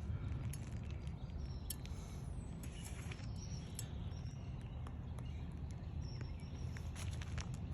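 Outdoor background noise on a roof: a low steady rumble, scattered light clicks and taps, and a few faint bird chirps.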